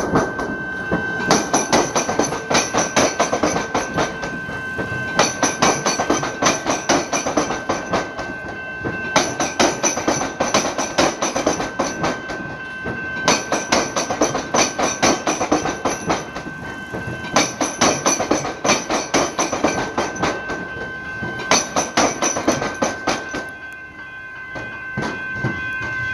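Suburban electric train passing slowly over a railway–tramway diamond crossing, its wheels clattering over the rail gaps in six clusters about four seconds apart, one for each carriage. A steady high tone runs underneath.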